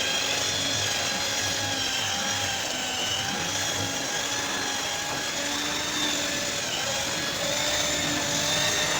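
A handheld power tool running steadily, its pitch wavering slightly.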